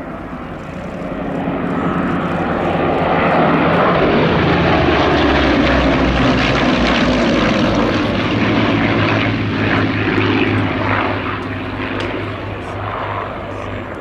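Rolls-Royce Merlin V12 engine of a propeller-driven fighter flying past. It swells in over a couple of seconds and is loudest about four to seven seconds in, its pitch dropping as it goes by, then fades away.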